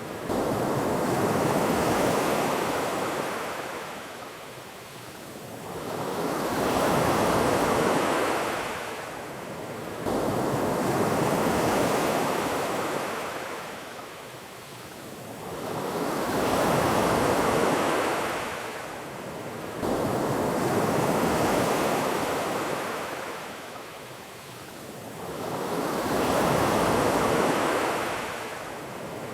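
Ocean surf: waves washing in and drawing back in a steady cycle, each swell of rushing water rising and fading about every five seconds.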